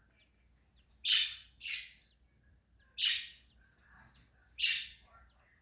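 Budgie giving four harsh squawking calls, with faint short high chirps in between.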